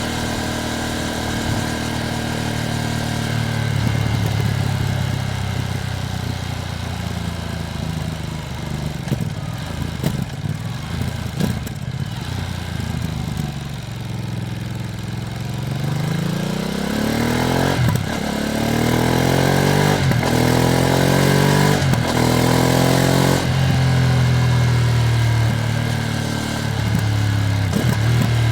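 Ducati Streetfighter V2S V-twin engine heard from the bike while riding, on a new engine still being run in. It runs steadily at first. About halfway through, the revs rise under acceleration and the sound breaks briefly a few times as the gears change.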